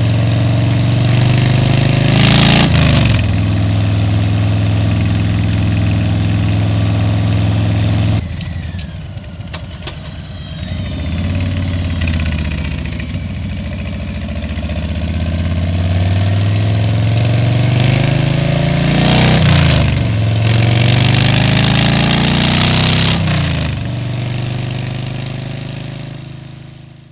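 Motorcycle engine under way. It holds a steady pitch with a quick pitch change about two and a half seconds in, eases off around eight seconds, then climbs in rising pitch through two more quick breaks in the pitch before winding down near the end. Wind rushing across the helmet microphone sits over the engine.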